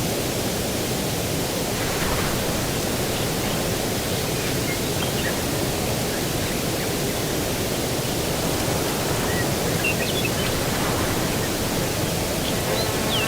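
Steady outdoor rushing noise with faint, short bird chirps scattered through it.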